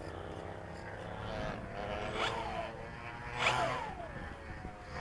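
Aileron servo of a FlyZone Cessna Corvalis 350 RC plane buzzing with a thin whine, with two louder sweeps of falling pitch about two and three and a half seconds in as it drives the aileron. The pilot takes this buzz for a noise from the aileron.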